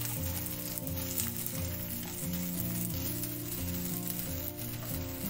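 Sabudana patties shallow-frying in oil in a pan, the oil sizzling steadily. Soft background music with a repeating pattern of low notes plays underneath.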